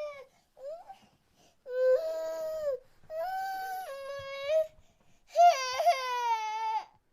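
Baby crying: a couple of short cries, then three long cries of a second or more each, the last one the loudest.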